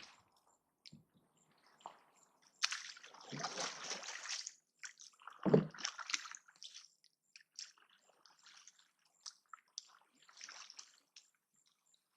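Water splashing and sloshing: a long splash, then a sharper, heavier splash with a low thump about five and a half seconds in, followed by scattered drips and small splashes.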